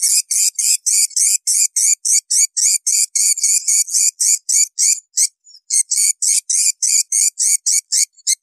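Edible-nest swiftlet calls: a rapid train of high, buzzy chirps, about four to five a second, each with a short rising note underneath, broken by a brief pause about five seconds in. This is the call played to attract swiftlets to a nesting house.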